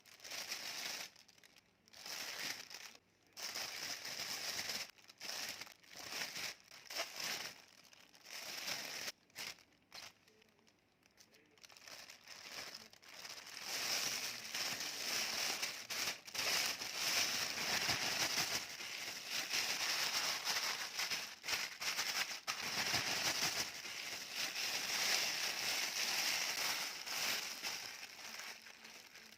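Potatoes sizzling and crackling in hot frying oil, first in short stretches broken by sudden gaps, then as a steady sizzle from about halfway in.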